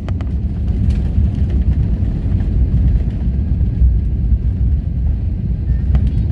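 Passenger airliner's steady low rumble during landing, with a few brief rattles.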